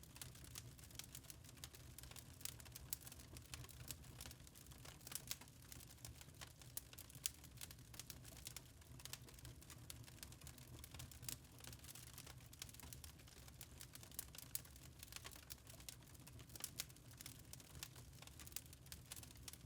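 Faint wood fire crackling in a fireplace: irregular small snaps and pops over a low steady rumble.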